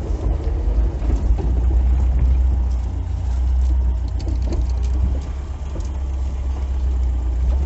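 Classic Lada (VAZ 2101–07) inline-four engine running at low speed, a steady low rumble, as the car moves with the steering turned. No squeak is heard from the front suspension, whose ball joints have just been replaced.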